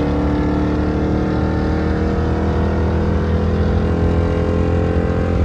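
Jeep Grand Cherokee Trackhawk's supercharged 6.2-litre V8 pulling hard at speed. Its drone holds a nearly steady pitch that sags slightly and then climbs a little toward the end.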